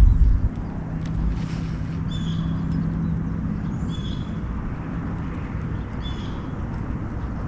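Outdoor ambience on the water: a dull low thump at the very start, then steady wind-and-water hiss with a low hum for a couple of seconds and a short high chirp repeating every two seconds or so.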